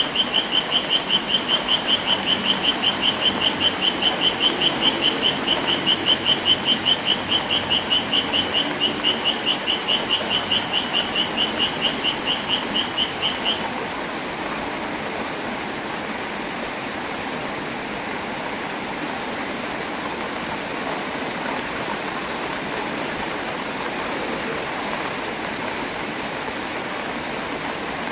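Steady rain hiss. Over it, a high chirping call repeats rapidly and evenly at one pitch, then stops about halfway through.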